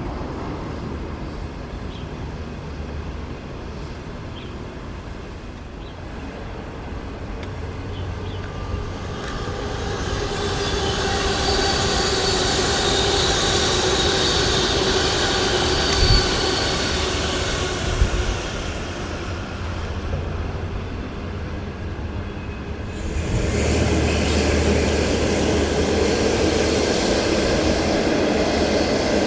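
A train running past on the line: wheel and rail noise swells to a peak with a high wheel squeal and two sharp knocks, eases, then a fresh loud surge of train noise starts suddenly near the end.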